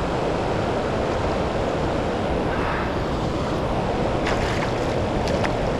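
Steady rush of fast-moving river water below a hydroelectric dam, mixed with wind buffeting the microphone, with a few faint clicks near the end.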